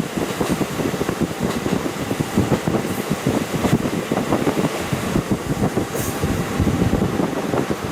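KiHa 40 diesel railcar running along the line, heard through a fully open window: a steady rumble of wheels on rail and engine, with a few short clicks around three seconds and six seconds in.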